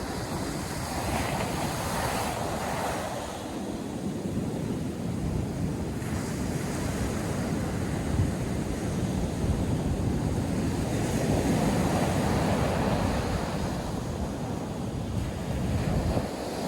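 North Sea surf breaking on a sandy beach, a continuous wash that swells and eases, with wind buffeting the microphone.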